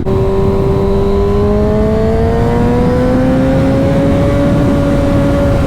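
Motorcycle engine pulling in gear, its pitch rising slowly and steadily for about four seconds, then easing off slightly near the end, under a constant rush of wind and road noise.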